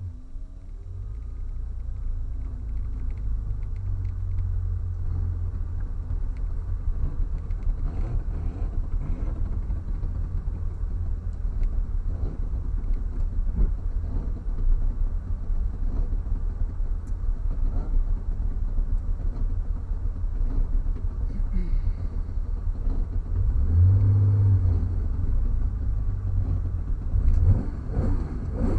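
Porsche 911's flat-six engine running under load, heard from inside the stripped, roll-caged cabin as a low steady drone with small rises and falls in engine speed. It swells louder for a moment near the end.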